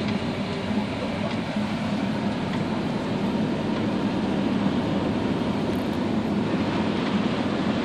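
Steady vehicle running noise with a constant low hum.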